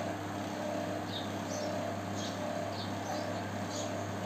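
Short high chirps of small birds, repeating every half second or so from about a second in, over a steady low background hum.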